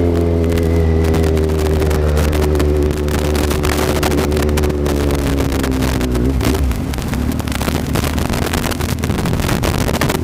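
Kawasaki Z750 inline-four engine running at steady revs, then easing off with falling pitch and dropping away about six and a half seconds in, leaving a rougher, noisier sound.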